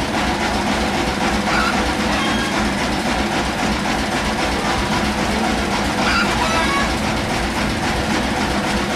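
Sawmill machinery running steadily: a continuous mechanical clatter with a low, evenly repeating rumble.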